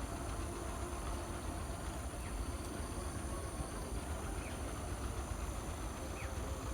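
Outdoor field ambience: a steady high insect drone over a low rumble, with a few faint short chirps.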